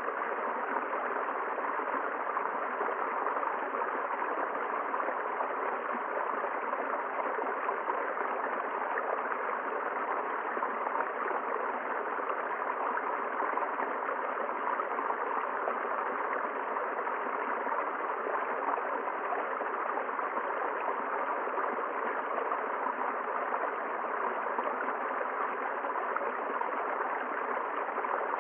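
A river running over rocks: a steady rush of flowing water, unchanging throughout.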